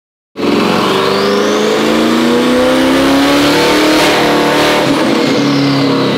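Twin-turbo C8 Corvette's 6.2-litre LT2 V8 under load on a chassis dyno. It cuts in abruptly, rises in pitch, and the revs fall away after about four seconds. The crew says the car was turning off during the pull.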